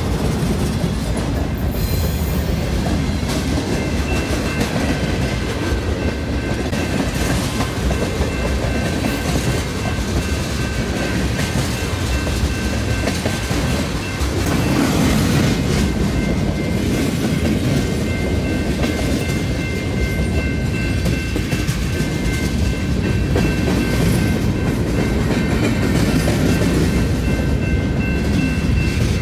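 Freight train cars rolling past at close range: a continuous low rumble of steel wheels on the rails, with a few steady high tones over it from about three seconds in.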